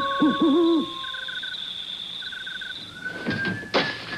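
An owl hoots a few times, followed by three short chirping trills like a cricket's. Near the end someone starts whistling, with a few sharp knocks.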